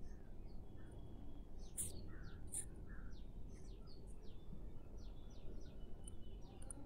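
Faint bird chirping: many short, high chirps scattered throughout, over a low steady background noise.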